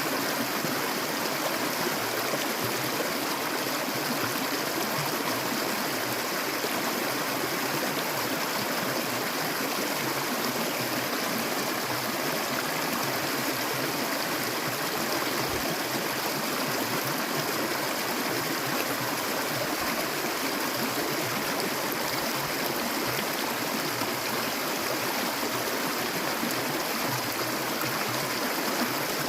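Clear stream water flowing and babbling steadily over stones, an even rushing splash with no change in level.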